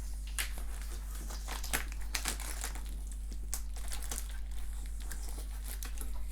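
Packing tape being peeled and torn off a cardboard box, with irregular crinkling and crackling rustles.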